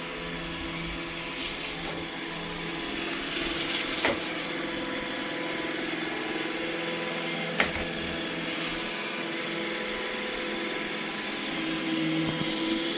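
iRobot Roomba E6 robot vacuum running steadily, its motor giving a constant hum with the whir of its brushes. There is a sharp click about seven and a half seconds in.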